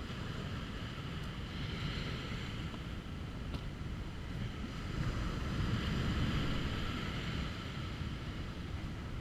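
Wind buffeting the microphone over the wash of ocean swell and surf, a steady rushing that swells about five seconds in.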